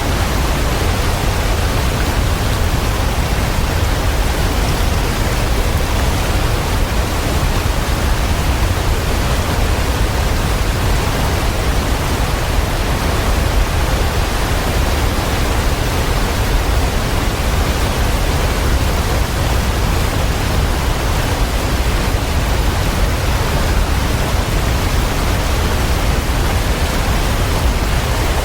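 Waterfall: a steady, unbroken rush of falling water with a deep low rumble, unchanging throughout.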